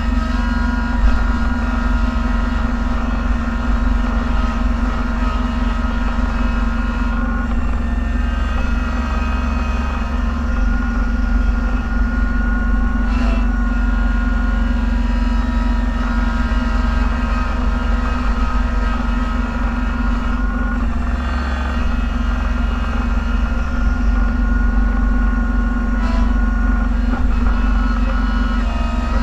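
Snowplow vehicle's engine running steadily, heard from inside the cab: a constant drone with several held tones over it.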